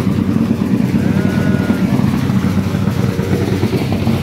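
Steady, loud, low rumble of a vehicle engine running nearby.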